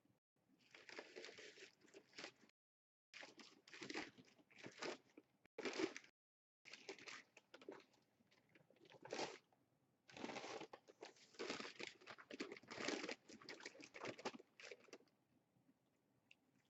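Close-up chewing and crunching of a heavily breaded, fried crispy chicken sandwich, in irregular bursts with short pauses.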